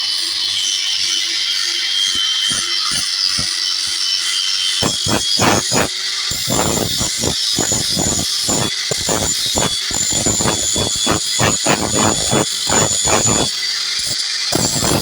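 A power tool's motor running with a steady high whine, joined about five seconds in by a run of heavy hammer blows on iron, about two a second, that pause briefly near the end.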